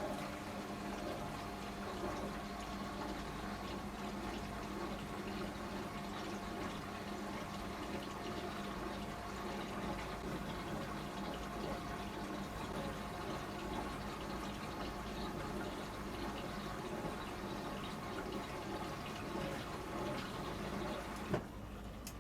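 Beko washing machine taking in water: a steady rush of water with a low hum runs until it cuts off with a click near the end.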